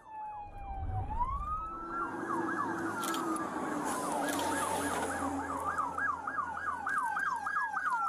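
Police sirens during a pursuit: one on a slow wail that falls, rises and falls again, joined about two seconds in by a fast yelp at about three cycles a second.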